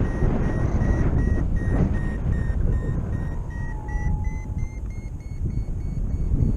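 Paragliding variometer beeping in quick, even pulses, several a second, over steady wind noise on the microphone. The beeps step up a little in pitch about four seconds in, the vario's sign of a slightly stronger climb in lift.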